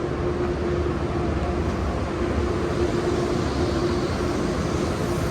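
Steady city street noise on a rainy day: a continuous hiss of traffic with a constant hum.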